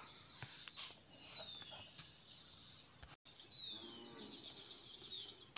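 Faint bird calls: two falling whistled notes about two and a half seconds apart, over quiet room noise.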